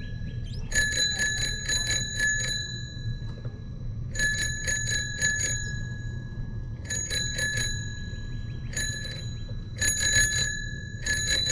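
Bicycle bell rung in quick bursts of dings, about five strikes a second, six bursts in all, over a steady low rumble.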